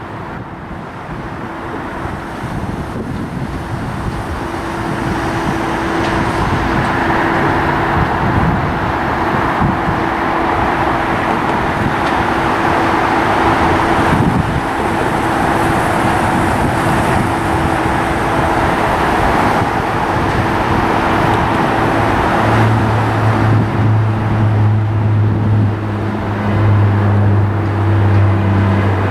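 Aircraft engine noise, growing louder over the first several seconds and then holding steady, with a steady hum under it and a deep low drone joining near the end.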